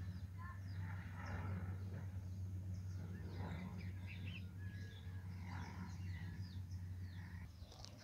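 Birds chirping and calling, short scattered calls, over a steady low hum that fades out near the end.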